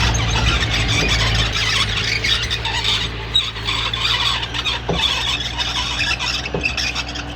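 Komatsu D20P crawler bulldozer working, its diesel engine running steadily under loud high-pitched squealing from the steel tracks, with a few metallic knocks about five and six and a half seconds in.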